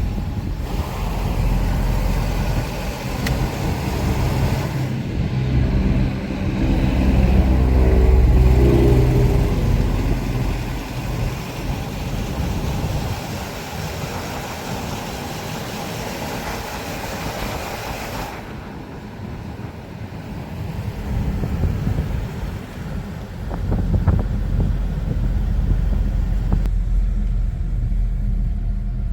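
A car driving along a road: steady tyre and engine noise, with the engine hum loudest about eight seconds in and the sound turning duller and more of a low rumble in the last third.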